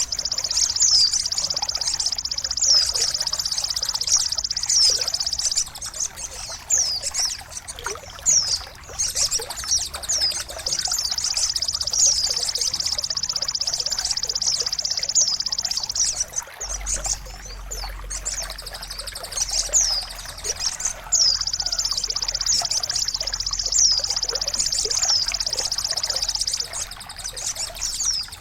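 Steady trickling water with a small bird chirping over it in short falling whistles, about one a second. The water sound drops away briefly several times, and a low hum comes in a little past halfway.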